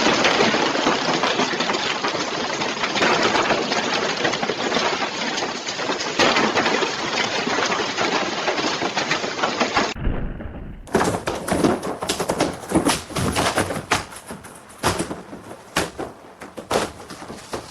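Hailstones hammering down in a dense, continuous clatter of rapid impacts. After a cut about ten seconds in, the impacts become sparser: separate sharp strikes of large hailstones.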